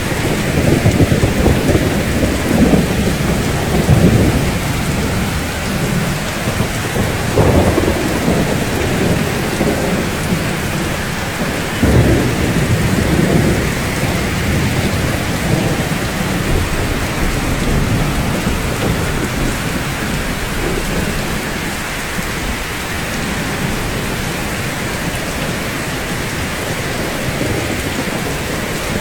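Steady heavy rain, with low rolls of thunder rumbling through the first half, the strongest about four, seven and twelve seconds in; the second half is rain alone.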